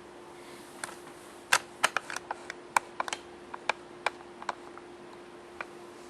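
A run of quick, irregular sharp clicks of a vape mod's buttons being pressed, bunched in the first few seconds, over a faint steady hum.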